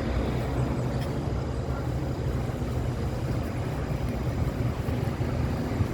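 Steady road-traffic noise: a continuous low rumble of vehicle engines and tyres passing on a city street.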